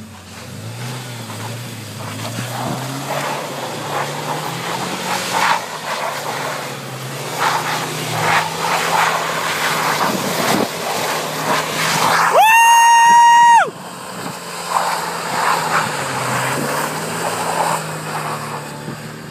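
A turbocharged sports car's engine revving up and down as the car drifts on snow. About twelve seconds in, a loud, steady horn-like tone sounds for just over a second and cuts off.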